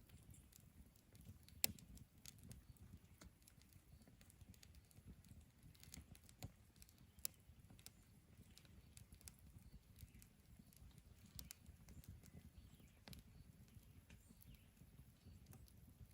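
Near silence: a faint low rumble with a few scattered soft clicks.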